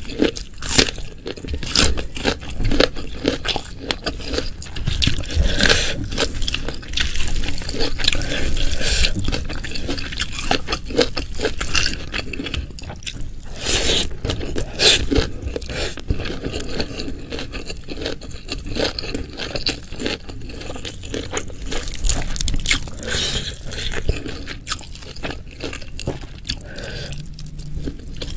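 Close-miked eating: crunchy chewing and wet mouth sounds, with a dense run of sharp clicks and crackles throughout.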